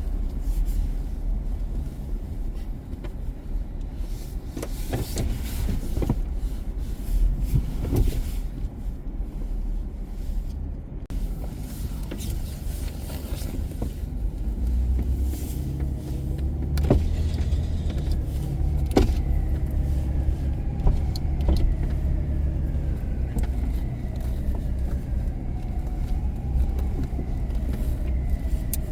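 Car driving on city streets: a steady low road-and-engine rumble with a few sharp knocks, and a faint tone that slowly falls in pitch in the second half.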